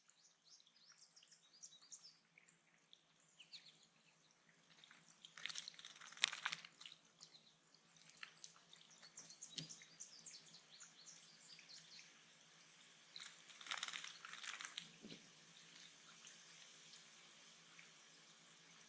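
Faint chirps and chips of small birds over a quiet dripping of water, with two brief louder bursts of noisy sound about six and fourteen seconds in.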